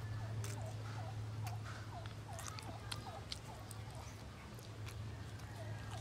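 Close-miked chewing and wet mouth clicks of someone eating pork asado. Behind it is a steady low hum, and a short call from an animal repeats about twice a second.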